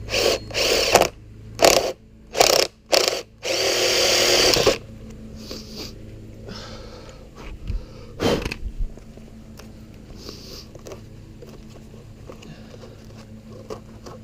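Power drill boring a hole, run in several short bursts and then held for about a second and a half; after that it stops and only quieter handling noise remains, with one knock.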